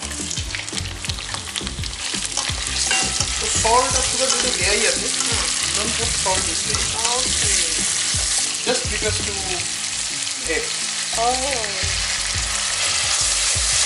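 Prawns sizzling in hot oil in a frying pan, stirred and scraped with a plastic spatula. The sizzle grows a little louder about four seconds in, after they go into the pan.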